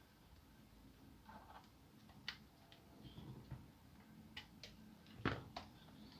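Faint, scattered clicks and taps from handling the parts of an ASUS K53SD laptop during disassembly, the loudest about five seconds in.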